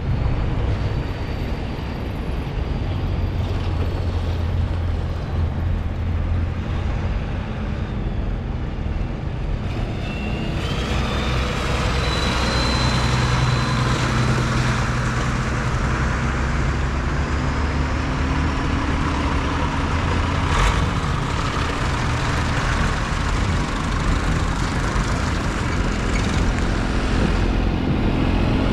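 Vintage tractor diesel engines running as tractors drive along a road, growing louder about a third of the way in.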